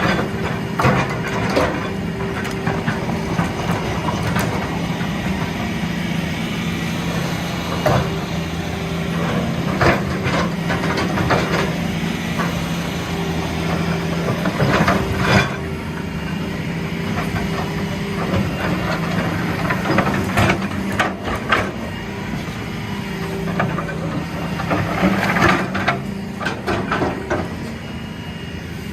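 Heavy diesel engine running steadily, with scattered sharp clanks and knocks over it.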